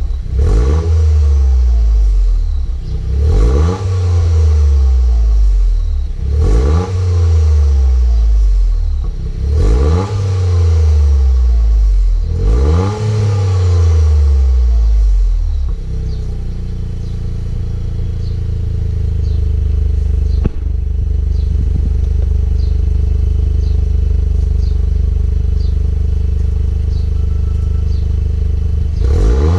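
Toyota GR Yaris turbocharged three-cylinder engine through an aftermarket sport exhaust, blipped five times about every three seconds, each rev rising sharply and falling back. For the second half it settles into a steady idle, and another rev starts at the very end.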